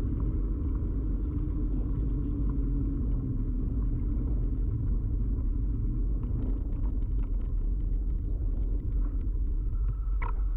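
Steady low rumble of a bicycle ride picked up by a camera fixed to the bike: road and frame vibration with wind on the microphone. Scattered light clicks come in the second half, and a short higher tone sounds near the end.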